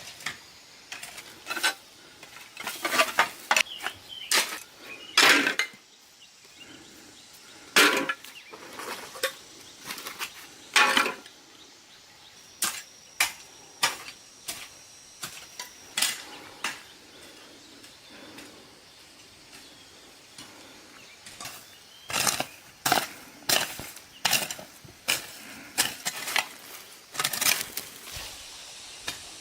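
A series of irregular knocks and clatters from hard objects being handled, coming in clusters with a quieter pause about two-thirds of the way through.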